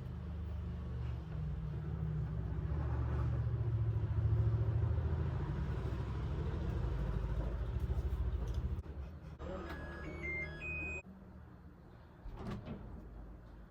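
Washing machine in its spin cycle: a steady low motor hum that swells and then eases off. Near the end a few short, high electronic beeps at different pitches sound, and the hum cuts off suddenly.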